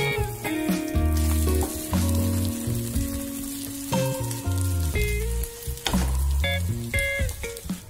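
Omelette sizzling in oil in a nonstick frying pan, the hiss plainest in the first half, under background music with a steady bass line.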